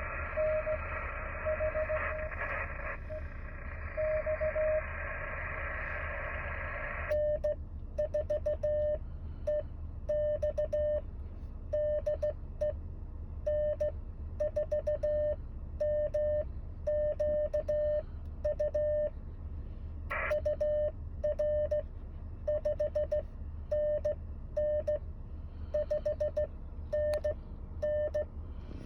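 Morse code (CW) from an amateur radio transceiver: a tone of about 600 Hz keyed in dots and dashes. For the first seven seconds it comes over receiver hiss, then the hiss drops away and the keying continues clean with small clicks, as sent CW sidetone.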